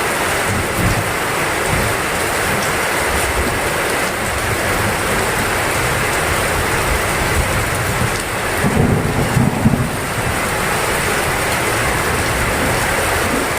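Heavy rain pouring steadily in an even hiss, with a brief low rumble of thunder about nine seconds in.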